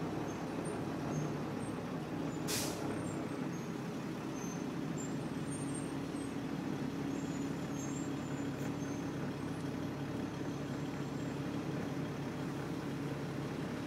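Detroit Diesel Series 40 engine of a 2000 Nova Bus LFS city bus running steadily, heard from inside the bus, with one short hiss of air about two and a half seconds in.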